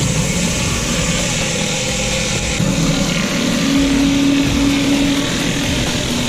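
Pressure washer running: a steady engine hum under the loud hiss of the high-pressure water jet spraying on paving.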